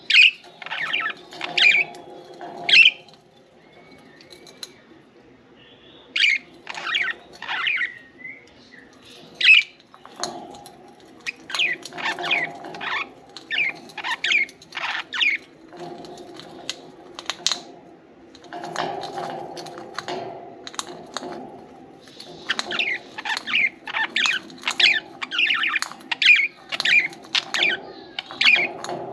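Budgies chirping and squawking in quick, short calls, in clusters broken by brief lulls, growing denser toward the end.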